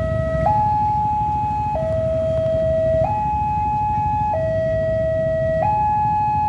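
Railway level-crossing warning alarm sounding a two-tone hi-lo signal, each tone held about a second and a quarter before switching, warning of an approaching train. A steady low rumble runs underneath.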